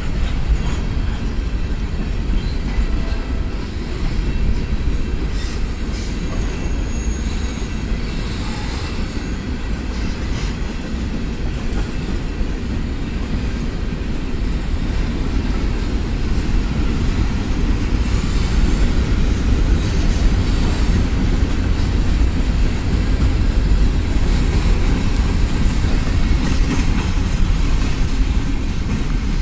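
Norfolk Southern mixed freight train's hopper and tank cars rolling past: a steady rumble and clickety-clack of steel wheels over the rails, with a brief faint wheel squeal about seven seconds in.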